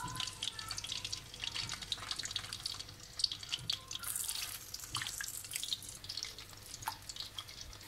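Marinated chicken pieces dropped into hot oil, sizzling and crackling as they start to deep-fry. The sizzle surges louder about four seconds in as more pieces go in.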